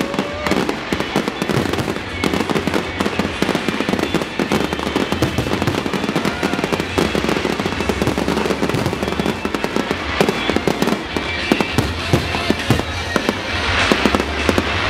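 Fireworks display going off in dense, rapid succession: a near-continuous run of bangs and crackles.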